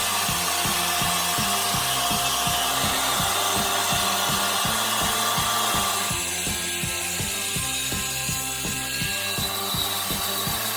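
A saw cutting lengthwise through a large log, with a steady hiss, under background music with a steady beat.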